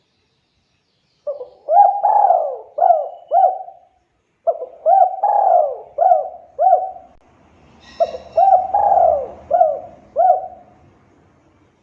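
Spotted dove cooing: three phrases a few seconds apart, each a run of about five quick hooting notes.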